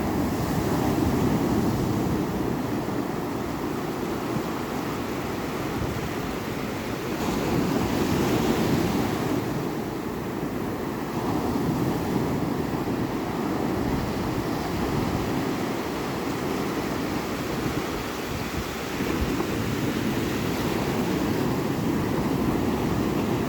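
Ocean waves breaking and washing in, a continuous surf rush that swells and eases every few seconds.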